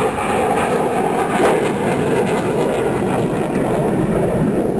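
Steady jet noise from Blue Angels F/A-18 Hornets in flight, a loud even rush without clear pitch.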